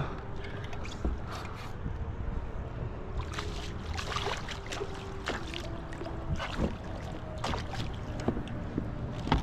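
Wind buffeting the microphone on a kayak on open water, under a faint steady hum. Scattered clicks and light splashes come more often from about three seconds in.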